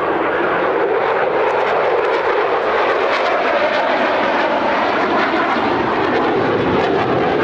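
A U.S. Air Force F-16 Fighting Falcon's jet engine running loud and steady at high power as the fighter flies its display, with a crackling edge to the noise.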